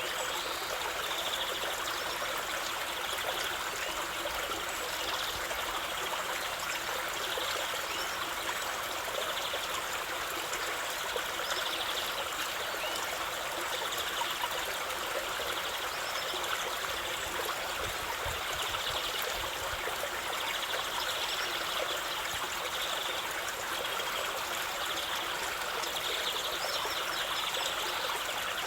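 A stream of running water, trickling and babbling steadily.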